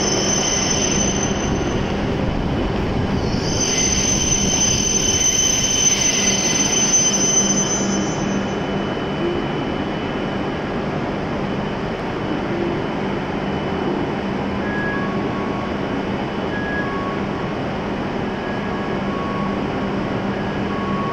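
W7 series Shinkansen train braking to a stop at a station platform: a high-pitched squeal as it slows, heard briefly at the start and again for several seconds, over the train's steady rumble and hum. The squeal dies away about eight seconds in, leaving the steady hum of the train as it halts and stands, with faint short tones near the end.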